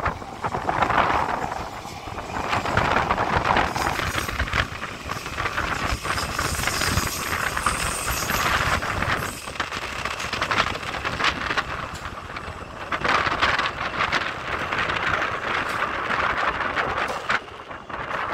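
Taipei Metro electric train running along the track, a steady rumble and rattle with many short wheel-and-rail clicks, with wind buffeting the microphone.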